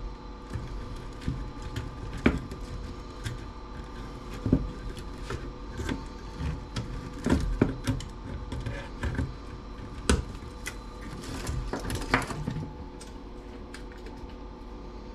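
Irregular clicks and snaps of hand tools working a small CRT TV's circuit board, cutters nipping jumper wires and parts being handled, over a faint steady hum.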